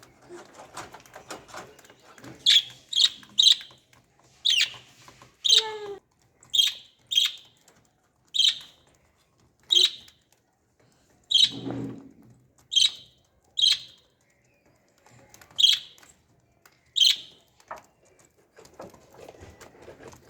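Pet lovebirds giving short, high-pitched chirps one at a time, about fourteen calls in small irregular groups with short pauses between them.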